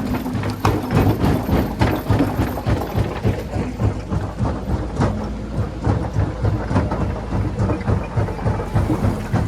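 Rock crusher working: a steady low rumble with rocks knocking and clattering irregularly.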